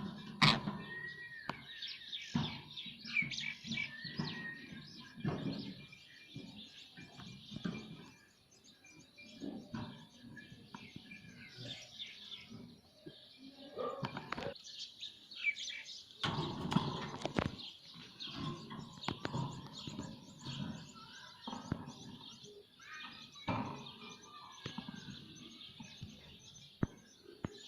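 Ringneck parakeet chirping and calling in short bursts, with scattered clicks and knocks between the calls.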